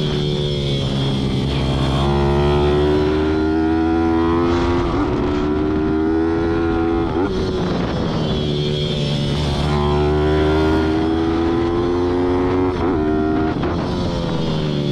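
Racing pit bike's single-cylinder four-stroke engine heard from on board at full race pace. The revs climb, hold high down a straight, drop off for a corner, then climb and hold again, twice over.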